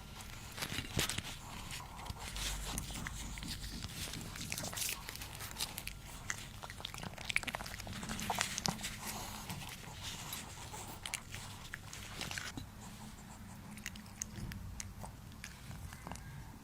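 A puppy chewing and crunching food close to the microphone. There are many quick crunches and clicks, which thin out about twelve seconds in.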